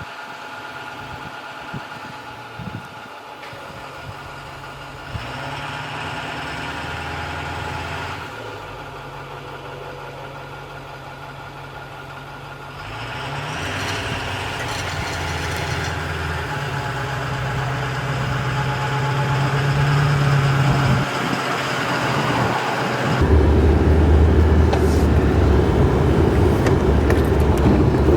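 A motor vehicle engine running, its pitch stepping up and down several times as it gets louder; about 23 seconds in it turns into a louder, steady low drone with road noise, as of driving.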